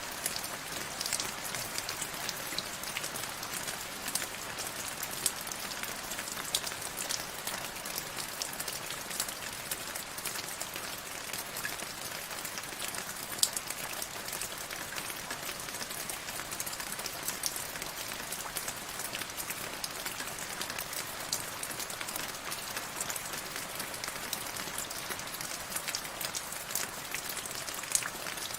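Steady rain falling on a surface, an even hiss with many sharp individual drop ticks scattered through it.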